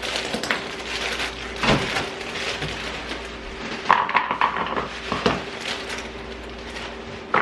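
Kitchen handling noise: scattered knocks, clicks and clatter of dishes and containers being moved about, over a steady low hum.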